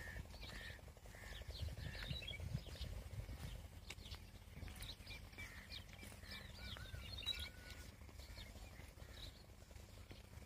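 Small birds chirping and calling in short high notes throughout, with a whistled, gliding call about seven seconds in, over a faint low rumble.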